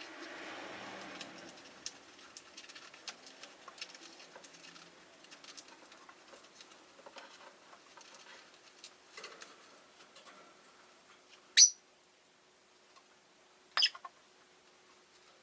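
Rosy-faced lovebirds in a cage: a steady scatter of small clicks and scratches from beaks and feet, then two short, shrill chirps near the end, about two seconds apart.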